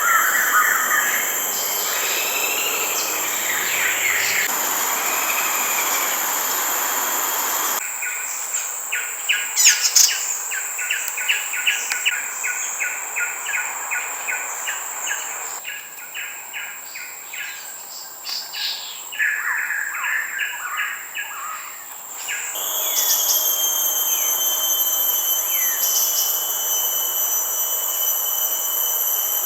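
Tropical forest ambience: a steady, high-pitched insect drone with birds calling over it, including a fast run of repeated notes about a third of the way in. The background changes abruptly several times, as the sound cuts between recordings.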